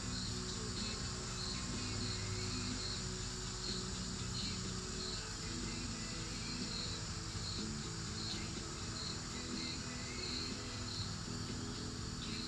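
Crickets chirping steadily at about two chirps a second, over faint low steady tones.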